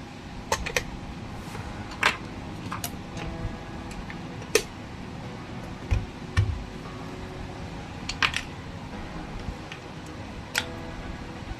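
Hands handling a plastic radio-control toy and its packaging: scattered light clicks and taps, with two dull thumps about six seconds in, over a steady low hum.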